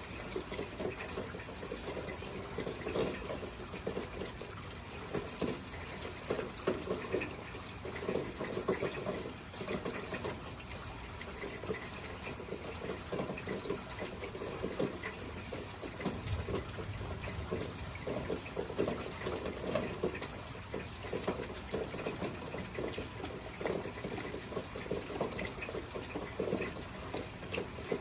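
Water running and splashing without a break, with a constant uneven spatter.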